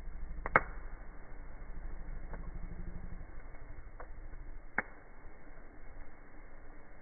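Campfire crackling: a few sharp pops from the burning wood, the loudest about half a second in and another strong one near the five-second mark, over a low steady rumble that fades out about five seconds in.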